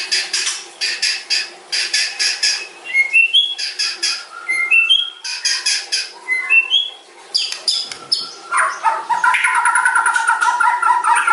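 White-rumped shama singing: bursts of harsh, scratchy notes, then short rising whistles, and from about two-thirds of the way in a long, fast run of rapid chattering notes.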